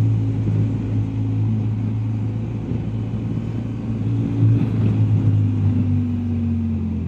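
BMW R1250GSA's boxer-twin engine running steadily under way, its pitch easing down a little in the last couple of seconds.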